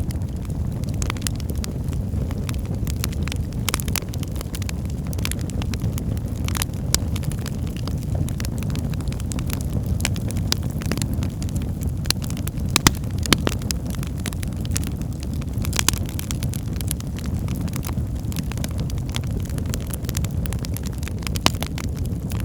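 Wood fire burning in a fireplace: a steady low rumble of flames with frequent sharp crackles and pops from the burning logs, a few of them louder.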